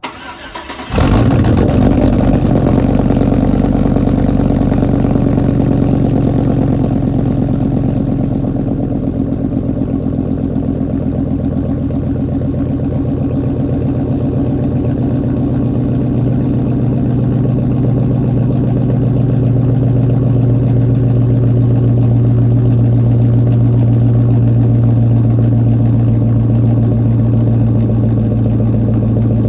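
A 2005 Chevy Silverado's 5.3-litre V8 cold-starting through a catless 3-inch Magnaflow exhaust. It cranks briefly, catches about a second in, and settles into a loud, steady idle that eases slightly in level about eight seconds in.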